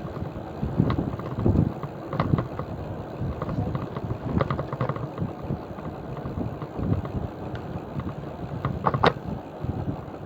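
500 W geared rear hub motor of an electric bicycle humming as it runs, over a steady rumbling noise, with irregular sharp knocks and rattles now and then, the loudest near the end.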